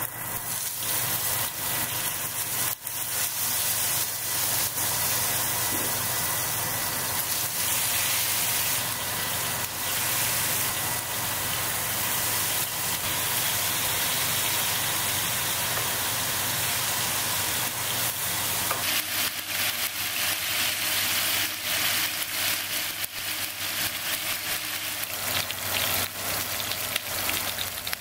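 Pork spare ribs sizzling steadily as they brown in oil in a nonstick frying pan on a gas stove, with scattered crackles of spattering fat that grow more frequent in the last third.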